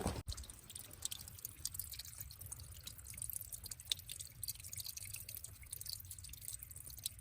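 Water dripping as scattered, irregular small drops over a faint low hum.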